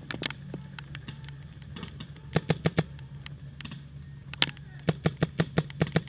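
Paintball markers firing in quick strings of shots, about eight a second: a short burst of four, a single shot, then a longer string of about ten near the end, over a steady low hum.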